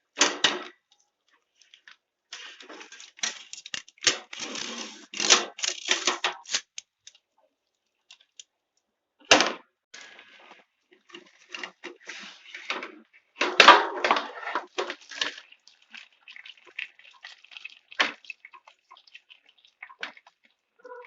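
Someone eating fried chicken drumsticks: irregular crunchy bites and tearing, in clusters with short pauses between them.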